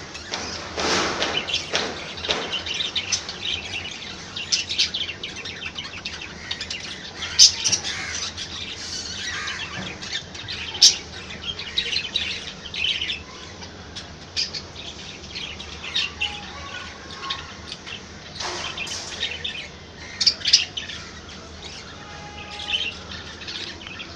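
Budgerigars chirping and chattering in quick, irregular bursts of short high calls, with a few sharp louder squeaks.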